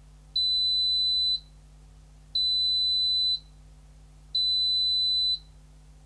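Zanussi ZKN7120L washing machine's buzzer beeping three times, each beep a steady high tone about a second long, two seconds apart.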